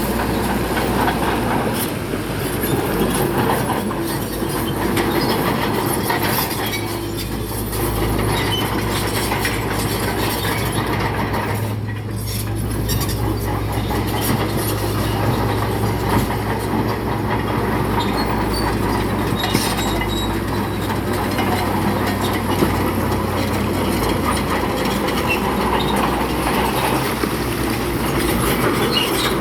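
Crawler bulldozer working: its diesel engine runs steadily under the constant clatter of steel tracks and pushed rock, with a steady low hum through the middle.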